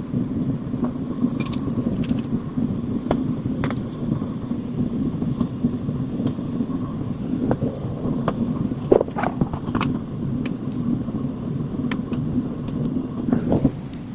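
Heavy rain drumming steadily on a tent, with a dense low patter and many sharp individual drop strikes on top.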